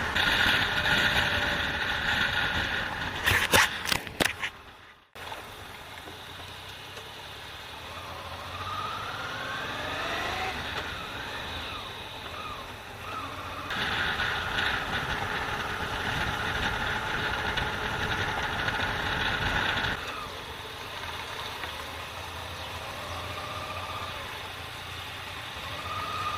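Motorcycle engine running, its pitch rising and falling as the bike accelerates and changes speed, with a stretch of louder rushing noise about halfway through.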